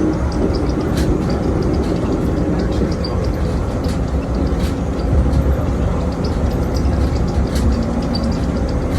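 Steady, loud rumble of a moving vehicle, with road and wind noise.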